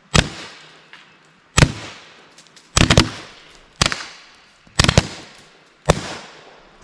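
Shots from a modified VKS Pro compressed-air marker, fired at a plywood board: six sharp reports about a second apart, two of them doubled, each with a short ringing tail. The marker is running low on air.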